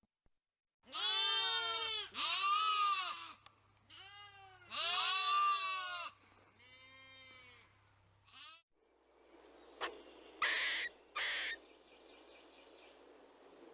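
Goat bleating: a series of about six drawn-out, arching bleats, some loud and some fainter. Near the end, after a change of background, come a few short, sharper calls.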